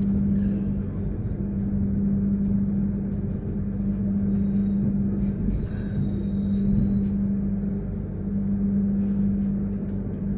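Passenger train running, heard from inside the carriage: a steady low hum over a continuous rumble of the ride, with faint light ticks.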